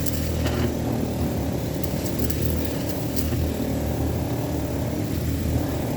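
Engine running at a steady speed, a constant low drone with a few faint ticks over it.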